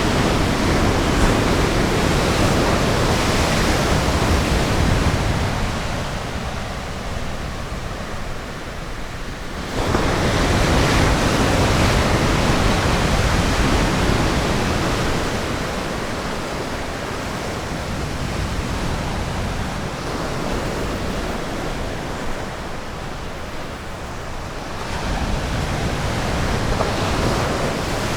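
Ocean surf breaking on a beach: a steady wash of waves that swells and eases, with a wave crashing suddenly about ten seconds in and another building near the end.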